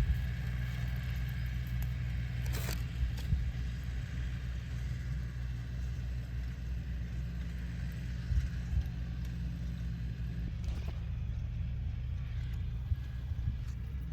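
A steady low engine rumble runs throughout, with a couple of brief knocks or rustles about 3 and 11 seconds in.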